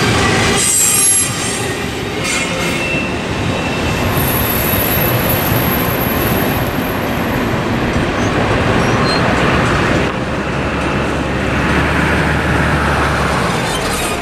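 Double-stack intermodal freight train rolling past with steel wheels squealing on the rails. The loudest part ends about a second in as the last car clears. The train's rumble and squeal then carry on more softly as it moves away.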